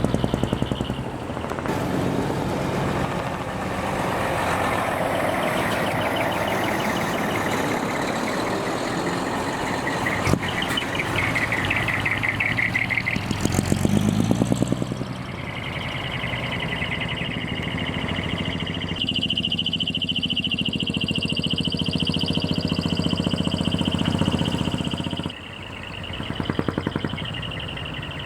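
Heavy diesel art trucks pulling out one after another, their engines revving in loud pulsing swells through modified open exhausts. A single sharp knock comes about ten seconds in, and a steady high whine runs through the second half.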